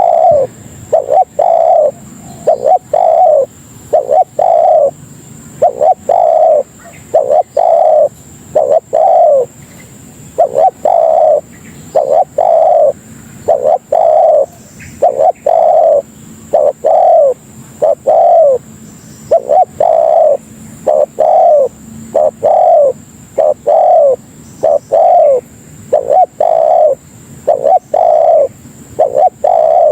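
Spotted dove (tekukur) cooing over and over, loud, downward-bending coos about one a second in runs with short pauses between them: the call used as a lure to draw in other doves.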